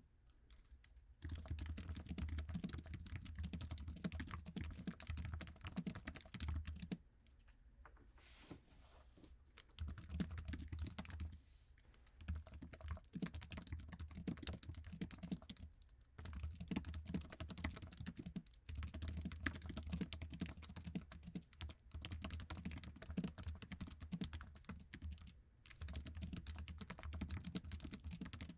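Fast typing on an Apple iMac's standard keyboard, a dense patter of light key clicks in long runs broken by short pauses.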